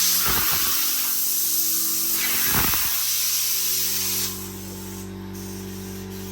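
Steady spray hiss, with a couple of brief whooshes, that cuts off about four seconds in; a steady low hum carries on underneath.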